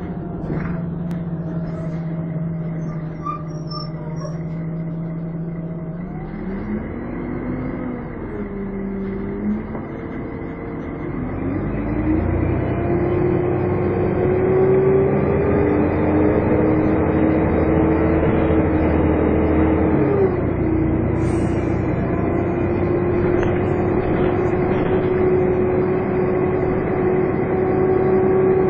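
Volvo Olympian double-decker bus engine running with its characteristic vacuum-cleaner-like "hoover" whine. It holds a steady note for about six seconds, then rises as the bus pulls away. The note dips twice, about eight and twenty seconds in, and grows louder from about twelve seconds on.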